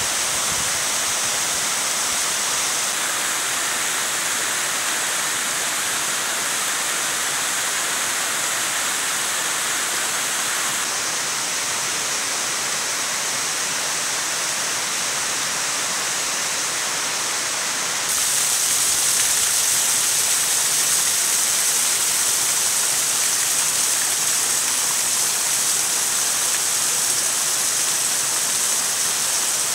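Waterfall running: a steady rush of falling water that changes slightly in tone about 3, 11 and 18 seconds in, a little louder after the last change.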